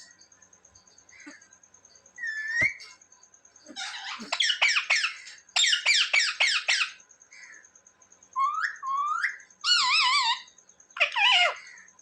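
Indian ringneck parrot calling: a fast run of high chirps, then rising whistles and wavering, warbling calls, in bursts with short pauses between.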